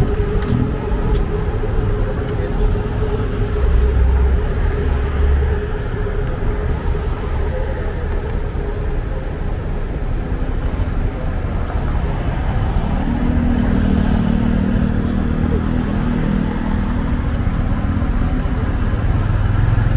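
Motorcycle taxi engine running steadily under way, with road and traffic noise. A deeper engine note swells in for a few seconds about two-thirds through.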